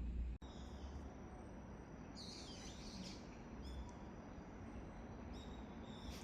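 Small birds chirping, with short high calls over a steady low background rumble.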